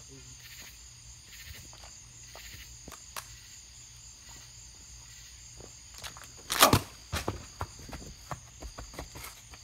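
Faint night-time outdoor ambience with a steady high insect chirr. About two-thirds of the way through comes a loud rustling thump, then a run of light knocks and scuffs: the camera being handled and carried, with footsteps.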